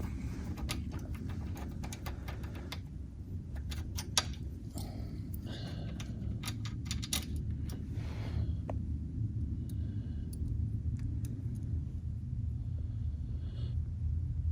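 Metal hand tools clicking and clinking as an Allen key and wrench work a bolt loose, in irregular clusters for the first eight seconds or so, with one sharp clack about four seconds in. A steady low hum runs underneath.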